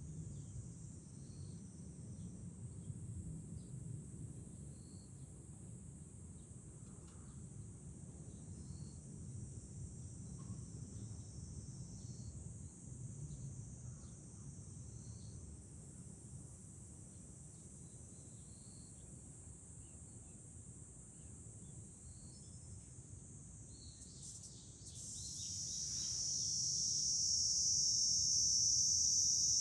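Cicadas droning in a steady high-pitched chorus over a low rumble of wind. About 25 seconds in, a nearer cicada starts up and swells to a much louder, shrill drone.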